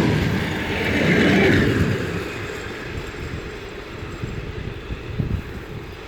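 A train passing close by, a loud rumbling rush that peaks about a second in and then fades away, leaving a low rumble with a few knocks.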